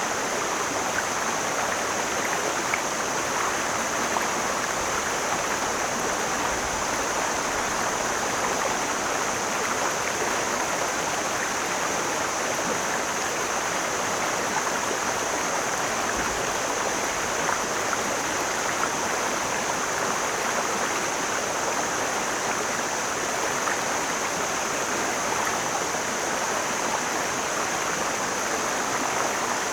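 Mountain stream flowing over rocks: a steady, unbroken rush of water, with a constant high hiss above it.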